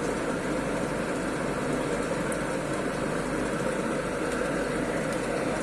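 Double mixer machine running steadily on a test run, a continuous even mechanical noise with no change in speed.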